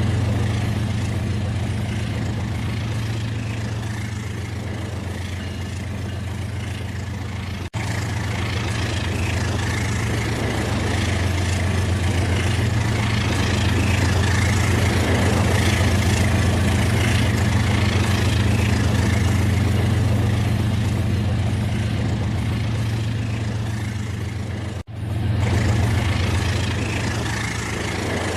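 Battery-powered toy train running on plastic track, its small electric motor and gears whirring steadily, with two very brief dropouts.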